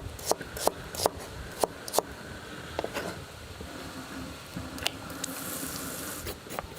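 Kitchen knife cutting onion on a cutting board: sharp knocks of the blade, about two a second at first, then a few spaced strokes, with a short hiss near the end.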